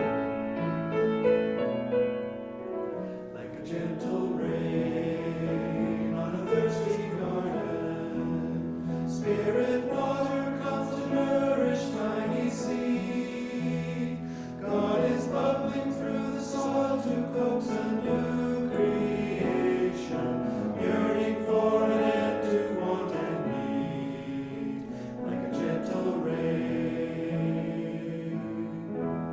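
Voices singing a hymn together with piano accompaniment.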